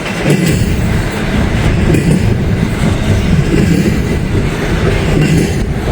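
Norfolk Southern freight train rolling past close by, its wheels running over the rails, with strong wind buffeting the microphone.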